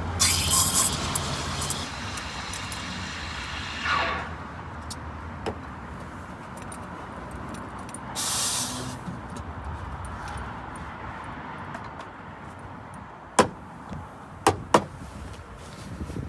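Road traffic passing, with a low rumble early on. There is a short hiss about eight seconds in and three sharp knocks near the end.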